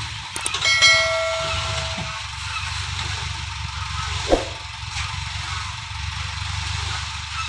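Dump truck's diesel engine running with a steady low rumble, while a vehicle horn sounds one long honk of about a second and a half, starting about a second in. A short, louder sound with a falling pitch comes about four seconds in.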